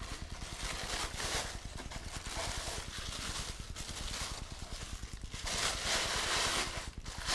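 Packaging rustling and scraping in irregular swells as model crane sections are handled and lifted out of the box.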